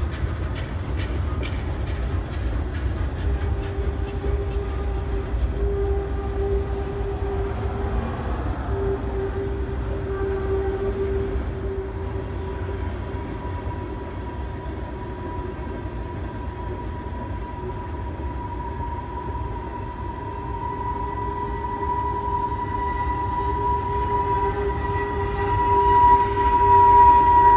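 Norfolk Southern train rolling past, a steady rumble of wheels on rail with a few rail-joint clicks at the start. Long steady high tones come in and grow louder toward the end.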